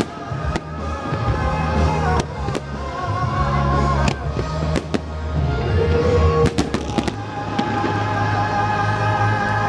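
Fireworks bursting with sharp, irregular bangs and cracks, several close together around two seconds in and again around six to seven seconds in, over loud Christmas music with sustained tones played for the display.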